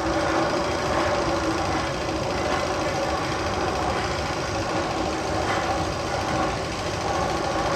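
Steady mechanical running and clattering, like machinery, from a sound effect played over speakers in a roller coaster tunnel.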